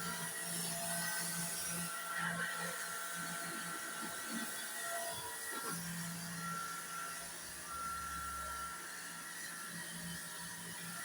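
Electric pressure washer running, its motor humming and whining over the hiss of the spray, the hum cutting out briefly and starting again.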